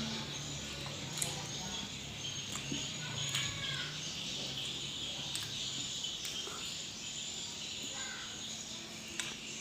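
Eating at a meal of rice with fish and stir-fried bitter melon: quiet mouth sounds with several sharp clicks scattered through, over a steady high-pitched hiss, and a few short chirping calls, about three and a half seconds in and again near eight seconds.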